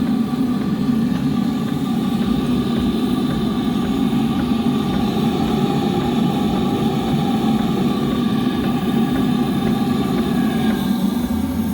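3.5 inch scale twin-cylinder live steam traction engine running steadily, a continuous even mechanical sound with no change in speed.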